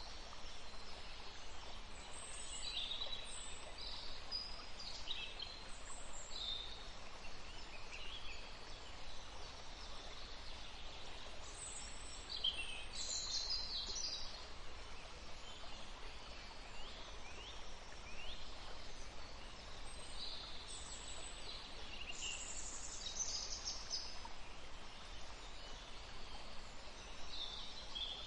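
Forest ambience: several songbirds chirping and calling in short high phrases over a steady background hiss.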